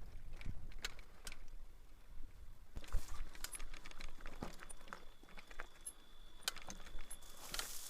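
Footsteps and a mountain bike moving over rock: scattered scuffs, clicks and light metallic rattles, with a faint steady high-pitched tone starting about three seconds in.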